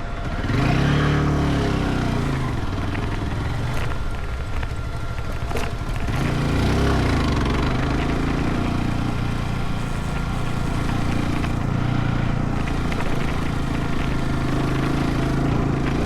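Motorcycle engine running under way, its pitch rising and falling twice as it speeds up and eases off, with a few faint clicks in between.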